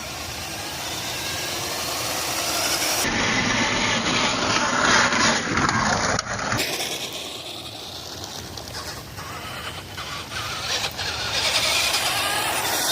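An RC truck's small electric motor and metal-geared gearbox whine at speed as it runs over uneven ground, the whine rising and falling with the throttle. Rattling knocks come as the truck hops over the bumps.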